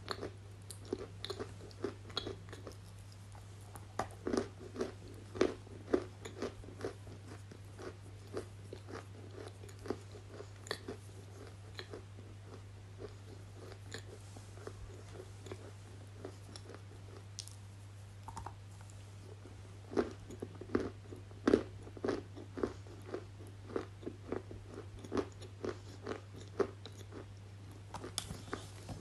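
Close-miked crunching and chewing: a person biting into something hard and brittle, with many sharp crunches coming in clusters and a steady low electrical hum underneath.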